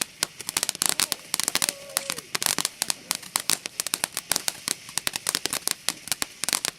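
Fireworks crackling: a dense, continuous run of rapid sharp pops that goes on throughout.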